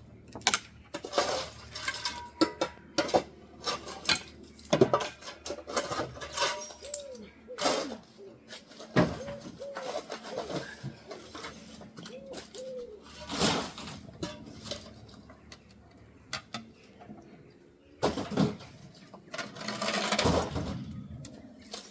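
Shovel scraping across a floor and scooping up demolition rubble, with irregular scrapes and clinks of debris.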